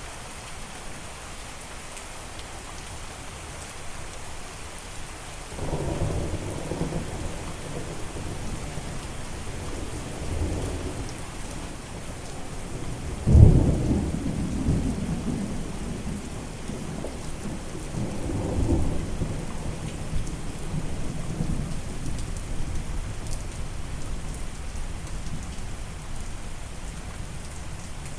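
Steady rain with rolling thunder. The rumbling begins about five seconds in, the loudest clap comes near the middle, and further rumbles follow and die away.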